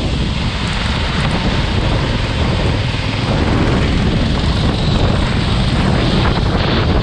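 Racing kart running on track, its engine noise mixed with heavy wind rushing over the microphone in a loud, steady roar.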